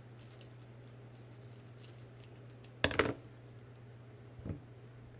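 Scissors cutting: a few light clicks, then a loud sharp double snip about three seconds in and a softer one near the end, over a steady low hum.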